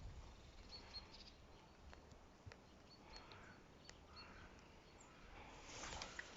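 Near silence: quiet outdoor background with a few faint, short, high chirps from small birds.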